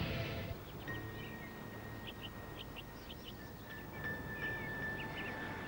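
Birds chirping in short repeated calls over a steady outdoor background hiss. A thin, steady high tone comes in about a second in and holds.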